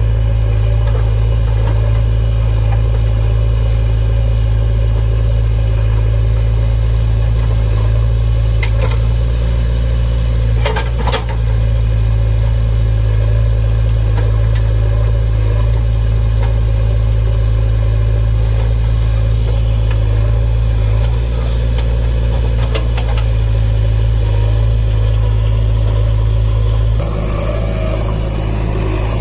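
Heavy diesel engine running steadily with a deep hum, with a few sharp clanks, the loudest about eleven seconds in. The engine note shifts near the end.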